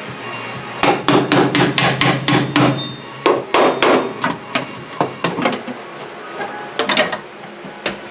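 Hammer tapping on a bare steel car body panel during dent repair: quick sharp strikes about four a second, coming in bursts with short pauses between them.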